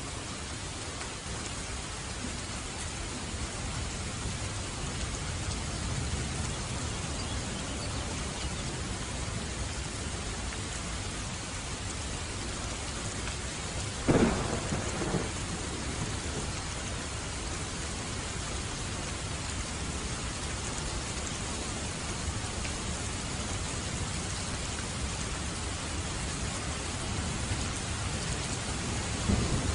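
Steady heavy rain with a low thunder rumble underneath. Halfway through a sharp, loud thunderclap cracks and rolls off over about a second, and near the end the thunder rumble swells again.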